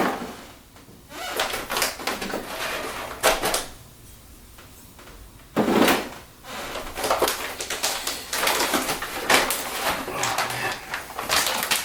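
Cardboard and plastic packaging of a graphics card being handled and opened: irregular rustling and scraping with sharp knocks. There is a lull about four seconds in, then a sudden knock and more rustling.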